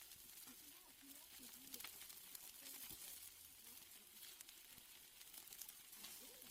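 Steaks sizzling faintly on a grill: a steady hiss with many small crackling pops.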